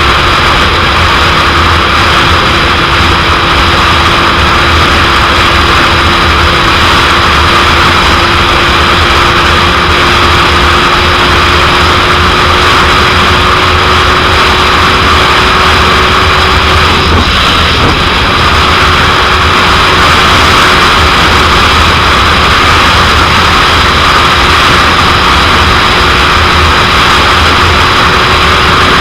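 Loud wind noise over the microphone on a motorcycle at speed, with the 2001 Suzuki GSX-R750's inline-four engine holding a steady note underneath; the engine note breaks briefly a little past halfway, then settles slightly lower.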